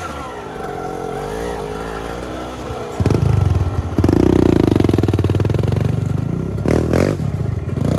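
Dirt bike engine running at low revs with its pitch wavering, then opened up sharply about three seconds in and again a second later, running louder under throttle, with a few quick blips near the end.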